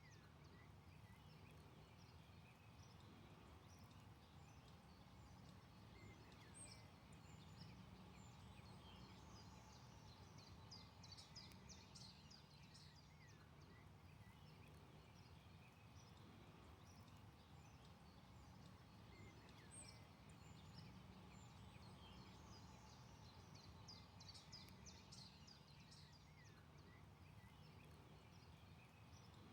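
Faint forest birdsong: songbirds singing clusters of quick, high notes every few seconds over a steady low background rumble.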